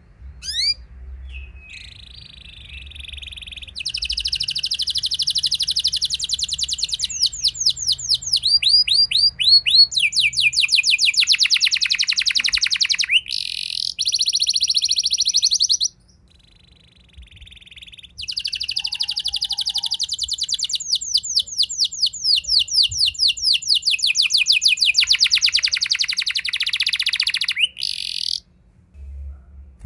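Domestic canary singing long rolling phrases: fast trills of rapidly repeated high notes, some rising, some falling. After a few short notes near the start come two long phrases, the first ending about sixteen seconds in and the second starting after a pause of about two seconds.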